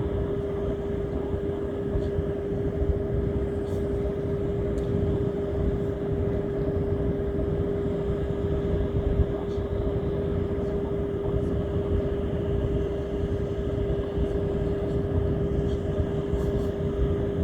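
A steady motor hum: one constant tone over a low rumble, unchanging throughout.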